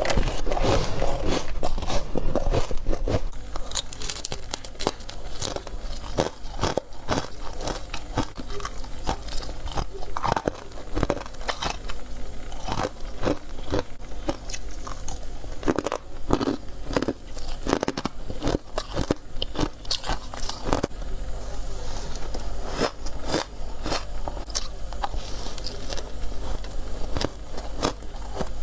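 Person biting and chewing freezer frost and ice close to the microphone: many sharp, irregular crunches, a few each second.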